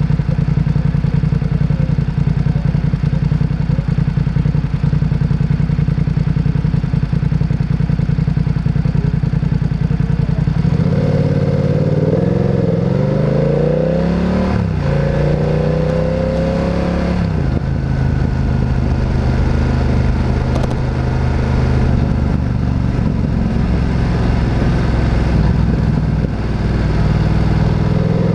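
Motorcycle engine running at a steady pitch for about eleven seconds, then revving up through several rising sweeps with breaks between them as it accelerates and shifts gear, settling back to steady running before rising again at the very end.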